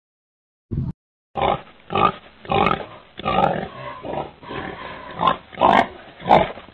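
An animal giving a run of short, rough calls, about two a second, starting after a second of silence.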